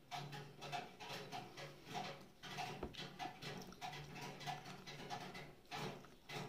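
Close-miked chewing of corn on the cob: moist crunching and mouth noises in a steady chewing rhythm, with another bite taken into the cob near the end.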